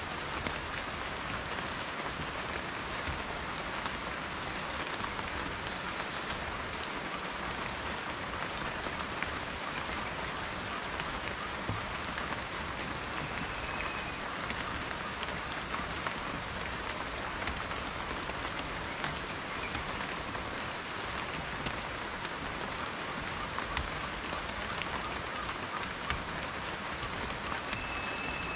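Steady rain falling, a dense even hiss with many separate drop ticks on a surface.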